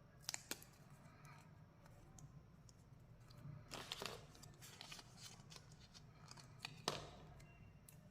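Candy packaging being handled, faint: a few sharp clicks and short crinkling rustles of plastic or foil wrapping, with the loudest click just before the end.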